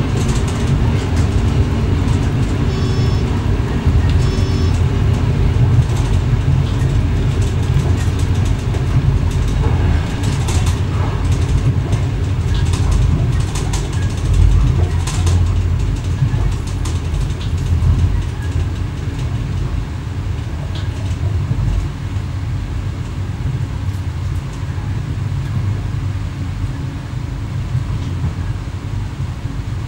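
Running noise in the driver's cab of an X11 electric multiple unit under way: a steady low rumble of wheels on the rails with scattered clicks, easing slightly in loudness in the second half.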